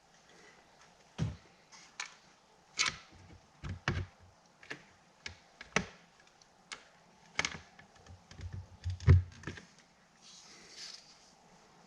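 Irregular clicks and knocks of metal and glass parts as a vent window assembly is worked into a truck door frame. The heaviest knock, with a low thump, comes about nine seconds in.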